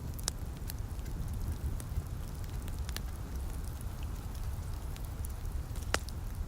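Wood fire crackling, with scattered sharp pops, the loudest one near the end, over a steady low rumble and a light hiss of rain.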